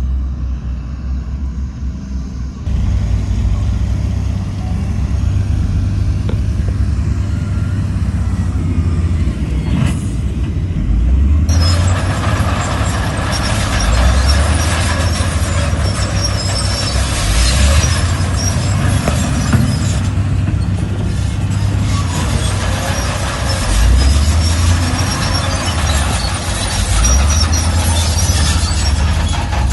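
Heavy diesel earthmoving machinery working, its deep engine note stepping up and down as it revs under load. From about twelve seconds in, a loud, rough grinding noise runs alongside the engine.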